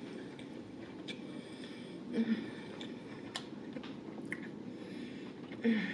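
Close-miked chewing with the lips closed: soft wet mouth clicks and smacks. Twice, about two seconds in and near the end, a short hummed "mm" of enjoyment.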